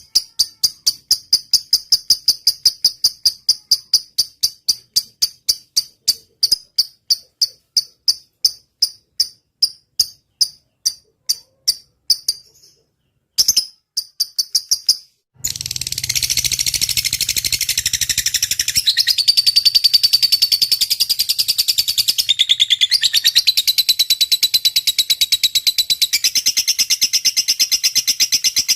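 For about the first twelve seconds, a run of sharp high chirps at roughly three a second, slowing toward the end. After a short break, a lovebird's long, rapid, unbroken chattering song (the "ngetik panjang" trill) starts suddenly and runs on, shifting pitch every few seconds.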